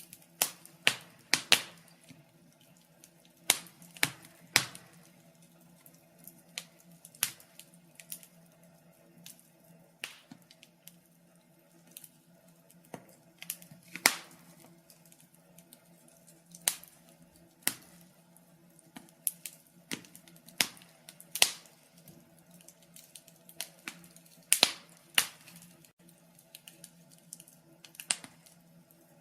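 Wood fire crackling: irregular sharp pops and snaps at uneven intervals, a few louder ones standing out, over a faint low hum.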